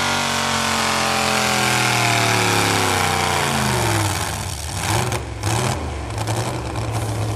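A pulling truck's engine winding down from high revs, its pitch falling steadily over about four seconds, then settling into a loud, steady idle.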